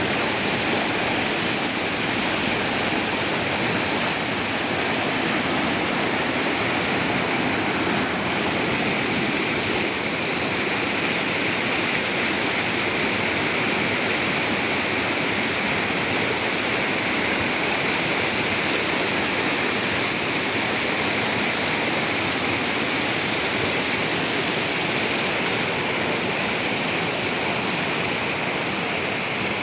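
River water rushing, a steady, continuous noise of flowing water over rocks or a small fall.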